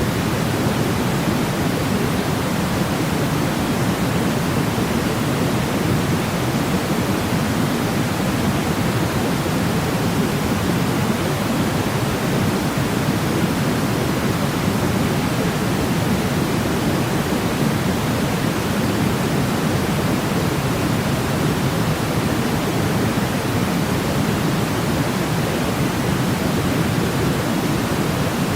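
Steady sleep noise: an even, unbroken hiss, deeper than a bright white-noise hiss, with no changes.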